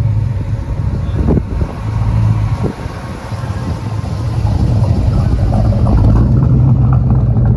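Car engines running as cars drive slowly past, with a low, steady engine note that dips about three seconds in and then grows louder.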